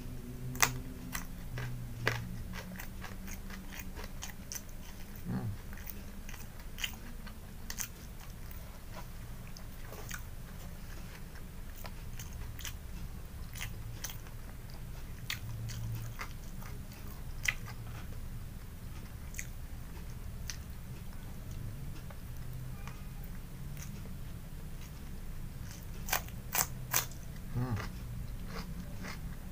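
Close-miked chewing and biting of raw vegetables, with many sharp crunches: a cluster of raw pea eggplants (lenca) at the start, and a quick run of loud crunches near the end as raw cucumber is bitten.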